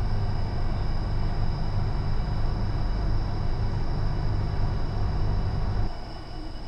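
Northern Class 333 electric multiple unit running at speed, heard from inside: a steady low rumble of the wheels on the track with thin, steady high-pitched whines above it. The rumble drops off sharply about six seconds in.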